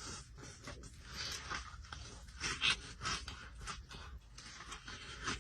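A person chewing a mouthful of hot fried chicken slider close to the microphone: irregular wet mouth clicks and small crunches.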